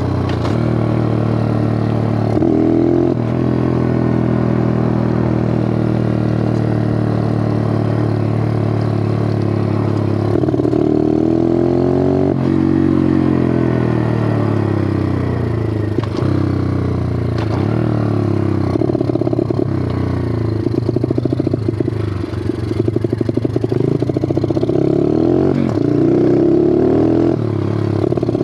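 Bigfoot 125 four-stroke single-cylinder pit bike engine running. Its pitch holds steady for about the first ten seconds, then the revs rise and fall repeatedly.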